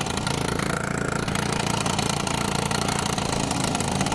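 Mini moto's small engine running steadily at an even speed.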